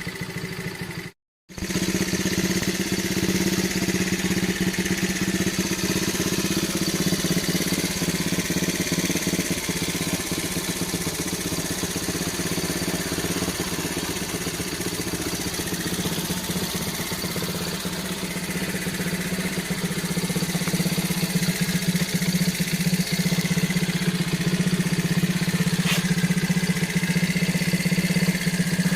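1972 Honda Dax ST70's small single-cylinder four-stroke engine idling steadily, ticking over. The sound cuts out briefly about a second in, then the same steady idle carries on.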